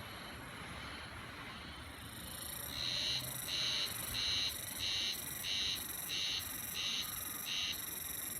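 Japanese spring cicada (harusemi, Terpnosia vacua) singing: a high-pitched call swells in about two seconds in, then runs as a series of about eight even pulses, roughly one and a half a second, before stopping near the end.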